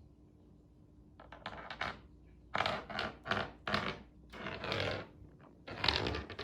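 A kitten at play making a run of short rustling scrapes, starting about a second in and repeating irregularly several times.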